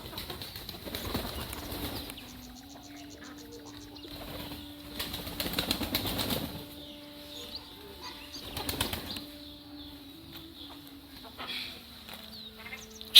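Birds' wings flapping in three separate bursts, with a faint steady hum underneath and a faint high chirping about two seconds in.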